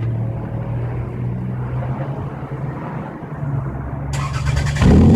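1999 Toyota Camry's 2.2-litre four-cylinder engine idling steadily through a straight pipe, its muffler deleted. A rushing hiss joins about four seconds in, and the exhaust gets louder just before the end.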